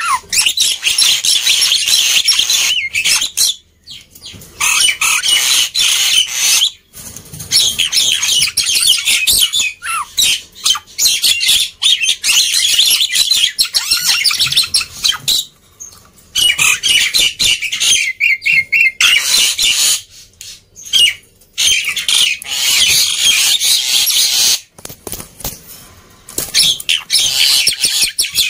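Black-winged myna (jalak putih) singing in long, noisy bouts of harsh chattering calls and whistles, broken by a few short pauses.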